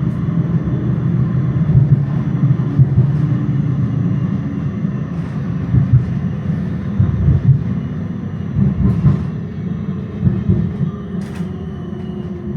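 Electric tram running along its track, heard from inside: a steady low rumble with irregular knocks and clunks from the wheels on the rails, a couple of sharp clicks, and a faint motor whine that slowly falls in pitch in the second half.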